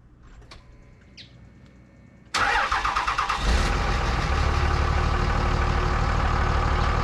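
A few faint clicks, then a Dodge Ram pickup's engine cranks and fires about two and a half seconds in and settles into a steady idle.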